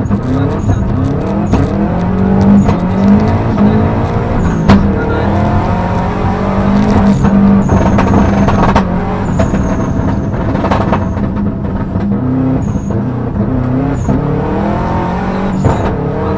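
Subaru Impreza STI rally car's turbocharged flat-four engine, heard from inside the cabin, pulling hard at high revs with the pitch rising and dropping again and again as it accelerates and changes gear. Sharp clicks and knocks come through along the way.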